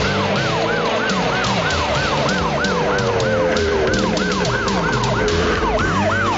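Siren in a fast yelp, its pitch sweeping up and down about three times a second, with music playing underneath. The siren cuts off at the very end.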